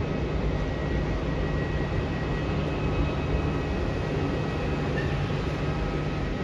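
Steady airport background noise: a low, even drone with a faint, steady high whine over it, typical of jet engines running at a distance.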